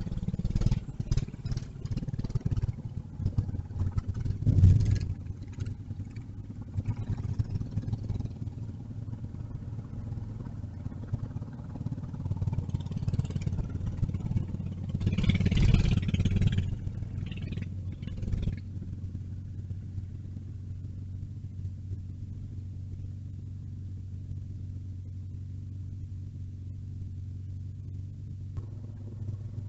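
Motor vehicle engine running, with handling knocks and two louder swells of engine noise in the first half. It settles into a steady low idle-like hum for the last ten seconds.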